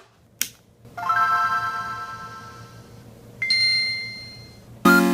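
A click, then electronic music: a bell-like synth chord rings out and fades slowly, a higher chime comes in about two and a half seconds later and fades too, and a loud, full synth chord comes in just before the end.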